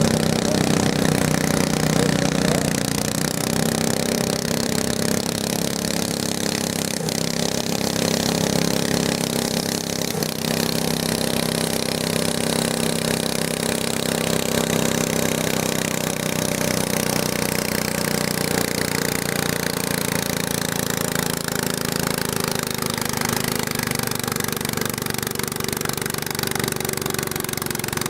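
A modified garden tractor's engine running steadily, its pitch sinking gradually over the stretch.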